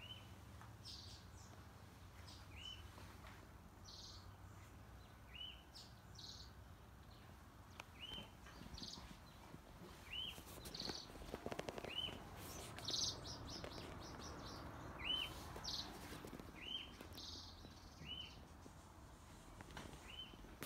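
A bird repeating a short, faint chirp every couple of seconds, with other brief, higher calls in between. A few footsteps and soft knocks around the middle.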